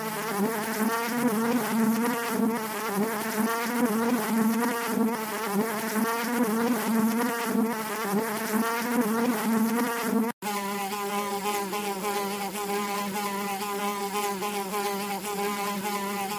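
Honeybees buzzing on the comb: a loud continuous hum whose pitch wavers. It breaks off for an instant about ten seconds in, then goes on steadier.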